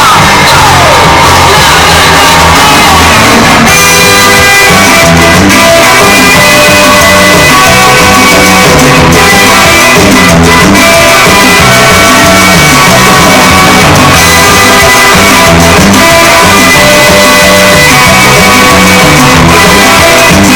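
Very loud dance music played over a sonido sound system. Falling pitch sweeps run through the first few seconds, then about four seconds in the music settles into steady sustained chords over a repeating bass line.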